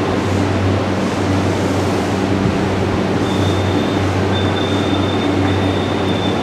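Steady rumble and hum of a Yamanote Line electric commuter train at the station platform, with a thin high tone over it from about three seconds in.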